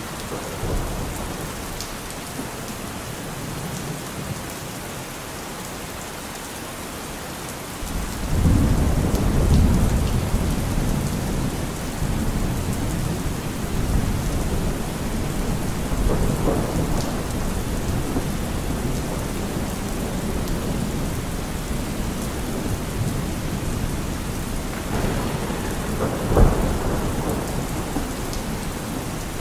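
Steady rain falling in a thunderstorm, with a long low roll of thunder breaking in about a quarter of the way through and slowly dying away, and a shorter, sharper thunderclap near the end.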